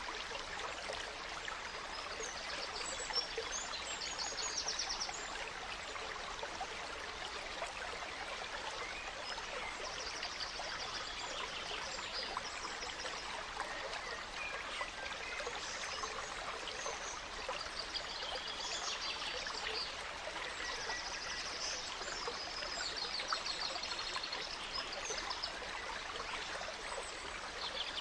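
A gentle stream running steadily over stones, with forest songbirds singing short phrases of quick repeated notes several times over the water.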